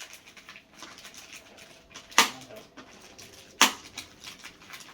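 Plastic packaging crinkling and rustling as parts are unwrapped by hand, with two sharp clicks about a second and a half apart, the loudest sounds.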